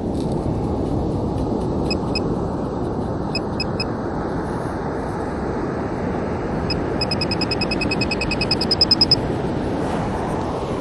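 Metal detector beeping over a buried target: a few scattered beeps, then a fast run of beeps that grows louder and stops abruptly near the end. The detector is sounding loud on a very small piece of metal. Steady surf and wind noise runs underneath.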